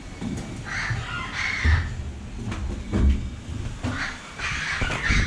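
Harsh, caw-like bird calls in two bouts, about a second in and again near the end, over a low rumble.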